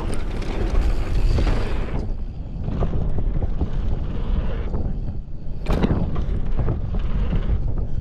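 Mountain bike riding fast down a dirt trail: wind buffeting the microphone over tyre rumble, with many small rattles and knocks from the bike. A sharper clatter comes about six seconds in.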